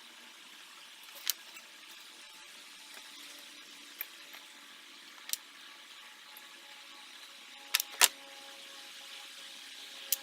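Steady background hiss with a few sharp clicks and taps of small metal parts and tools being handled as a throttle body is taken apart. The loudest clicks come as a close pair about eight seconds in.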